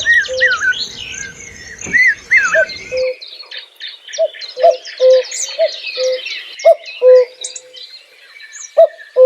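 Birds calling: a chorus of high chirps and twitters over a low two-note call repeated again and again.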